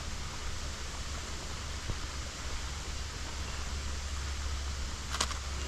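Steady outdoor rushing noise with a low rumble underneath, and a single sharp click near the end.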